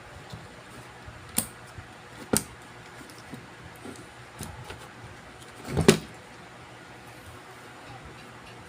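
Small hard objects being handled on a repair bench: two sharp clicks, then a louder knock with a brief scrape near the six-second mark, over a faint steady hum.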